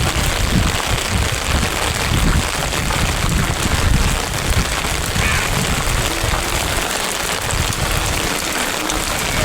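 Steady heavy rain falling, with an uneven low rumble underneath.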